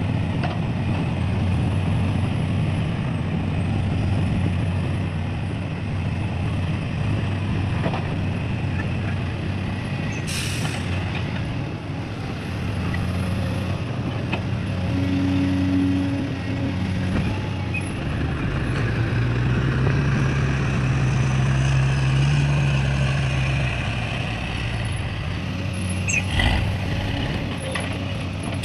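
Heavy diesel engines of an excavator and dump truck running, their pitch shifting as the load changes, with a short burst of hissing about ten seconds in.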